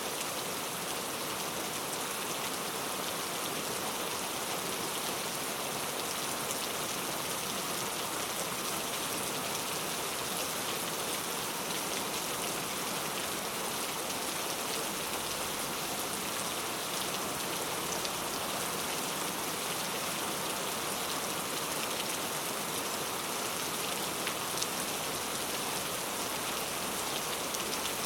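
Steady rain falling, an even hiss with many small drop ticks spattering on surfaces.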